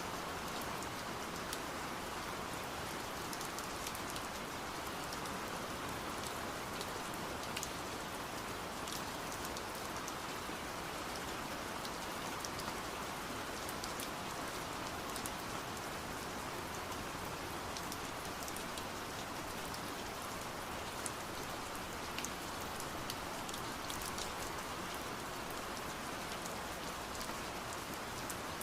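Steady rain hissing, with scattered sharp ticks of drops tapping on window glass.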